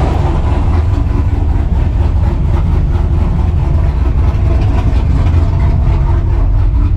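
Modified LS V8 truck engine running loud and steady, a deep low exhaust rumble with no revving.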